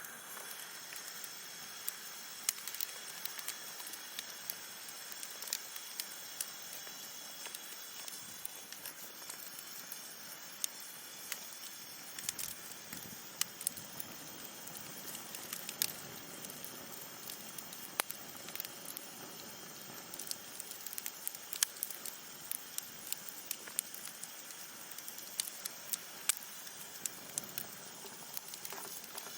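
Wood campfire burning: a steady soft hiss with frequent, irregular sharp crackles and pops from the burning wood.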